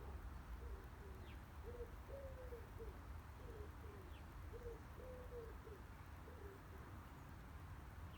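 A pigeon cooing a repeated phrase of low notes, some drawn out and some short, faint against a steady low rumble.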